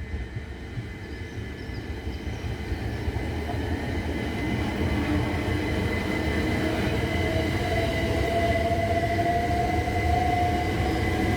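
Class 375 Electrostar electric multiple unit running on the line, growing steadily louder, with a traction-motor whine that comes in after about six seconds and rises slightly in pitch over a low rumble of wheels on rail.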